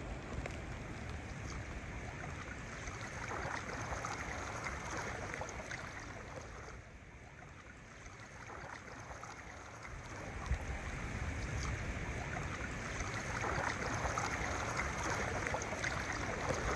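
Kayak on a river: splashing and rushing water from paddling, a steady wash that swells a few times and eases off briefly in the middle.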